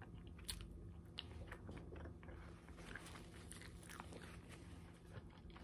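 Faint chewing of a fish sandwich, with a scattering of soft, short mouth clicks.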